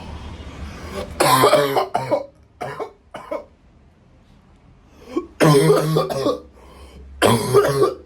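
A man coughing hard in three fits of several coughs each, with shorter coughs between them, after inhaling cannabis smoke.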